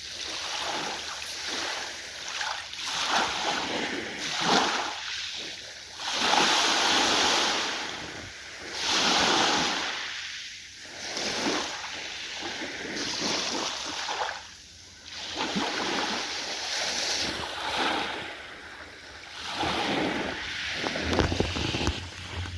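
Ocean waves washing in, in surges that swell and ebb every two to three seconds. A low steady hum comes in near the end.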